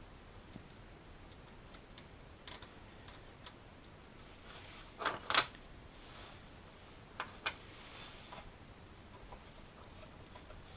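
Scattered light clicks and taps of a screwdriver and small screws as the retaining screws of an alternator's voltage regulator are started by hand. The loudest is a close pair of clicks about halfway through.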